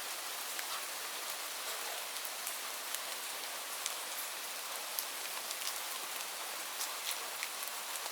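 Steady rain falling, a constant high hiss with scattered sharp ticks of single drops hitting a surface.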